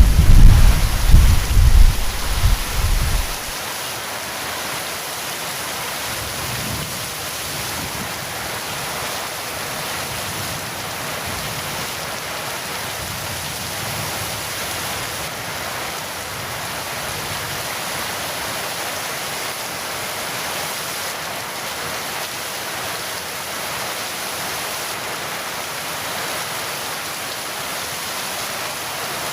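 Heavy rain falling in a steady hiss, with a loud thunder rumble at the start that dies away about three seconds in.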